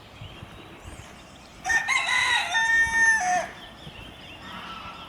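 Rooster crowing once: a single loud crow of nearly two seconds, starting almost two seconds in, with its pitch dropping at the end.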